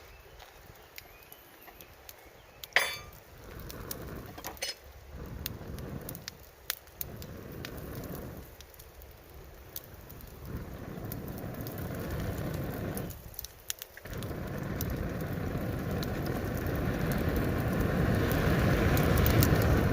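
Wood fire crackling and popping with sharp snaps. Over it come surges of low rushing air, in separate gusts with short gaps between them, growing louder towards the end and stopping abruptly.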